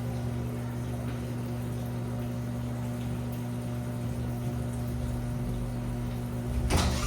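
Washing machine running: a steady motor hum under a low, uneven churning rumble, with a brief louder noise near the end.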